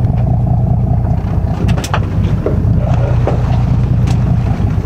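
Charter fishing boat's engine running steadily with a low drone, and a few brief clicks or knocks about two seconds in and near the end.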